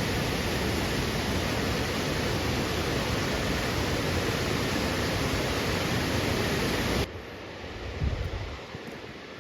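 Steady rush of falling water from a waterfall, cut off abruptly about seven seconds in to a much quieter stretch with one soft low thump.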